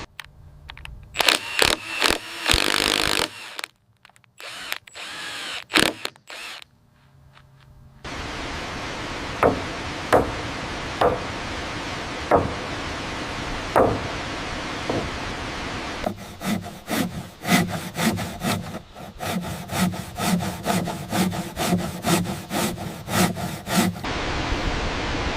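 Hand tools working wood in short, cut-together clips: sharp knocks about once a second over a steady rushing noise, then fast, even sawing strokes, two or three a second, over the last third.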